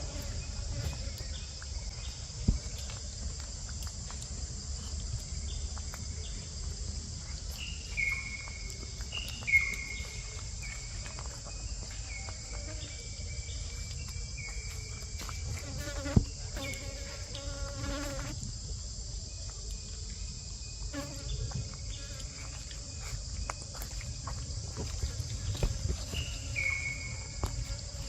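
Steady high-pitched insect chorus of crickets or cicadas drones throughout. Short falling whistled calls come at intervals, mostly in the middle and near the end, and a few sharp clicks stand out.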